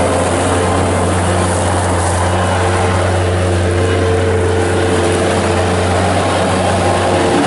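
Kubota diesel engine of a 1995 Bobcat 7753 skid steer loader running at a steady speed, a constant low drone.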